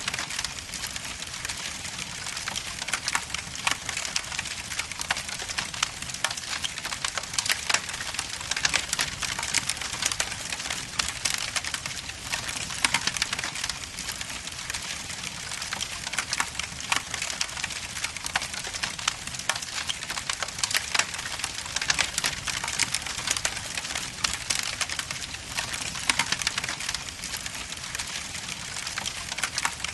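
Wood logs burning in a fireplace: a steady hiss with dense, irregular crackling pops throughout.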